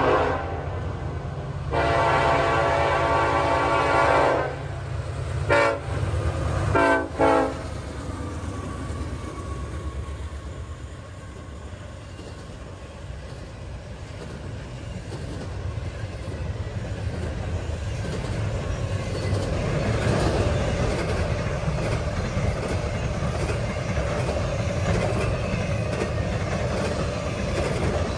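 Norfolk Southern diesel freight locomotive sounding its horn for the grade crossing: two long blasts, then shorter blasts about 5 and 7 seconds in, over the deep rumble of the diesel engine. After that, double-stack intermodal container cars roll past with a steady wheel rumble and clatter that grows louder towards the end.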